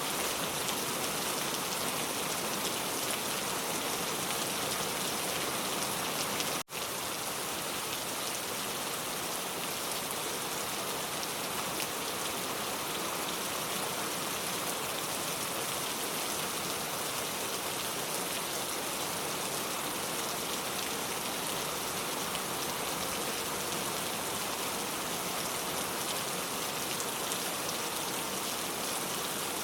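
Steady rain falling on a car, an even hiss of many drops on the body and glass, broken by a momentary dropout about seven seconds in.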